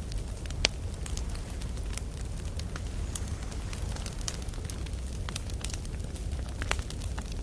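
Wood campfire crackling, with irregular snaps and pops of burning logs; one sharp pop under a second in is the loudest. Underneath runs a steady low rumble.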